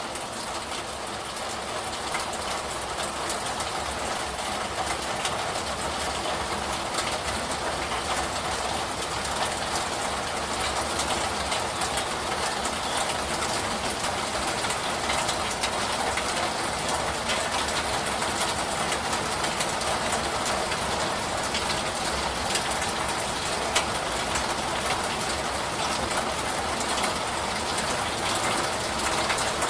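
Steady heavy rain, an even rushing hiss with fine drop ticks, swelling in over the first few seconds and then holding level.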